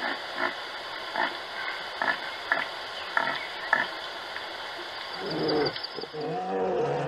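Short animal calls repeat about twice a second. About five seconds in they give way to a longer, low, pitched call from a polar bear that wavers in pitch.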